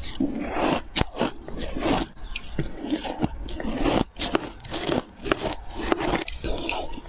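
Ice being bitten and chewed, a run of sharp, irregular crunches and cracks.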